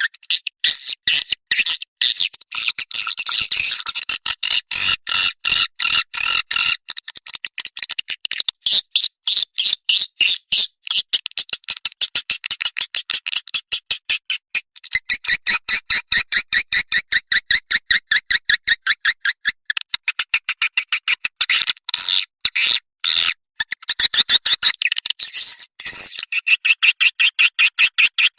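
Swiftlet calling sound, the kind played to lure swiftlets to a nesting house: a rapid, unbroken stream of short, high chirps, several a second, broken by brief pauses a few times.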